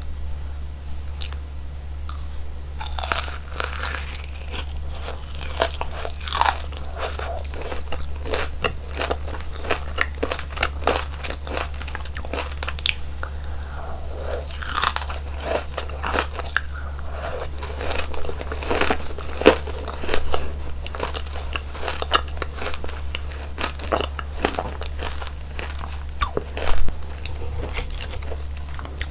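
Close-miked eating sounds: repeated crunchy bites and chewing of sweets, with irregular sharp crackles throughout. A steady low hum runs underneath.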